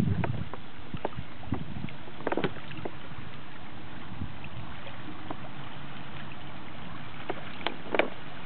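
Kayak on moving water: a steady rush of river water with a few short splashes, likely paddle strokes, near the start, about two seconds in and near the end.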